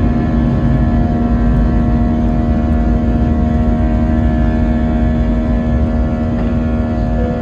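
Airbus A321 jet engines heard from inside the cabin: a loud, steady low rumble with a hum of several steady engine tones, one of which dips slightly near the end.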